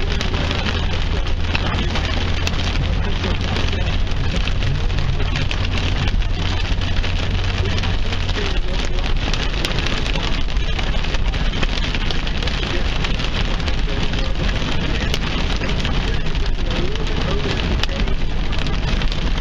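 Heavy rain striking a car's roof and windshield: a dense steady hiss full of sharp ticks of drops hitting. A low hum underneath stops about eight seconds in.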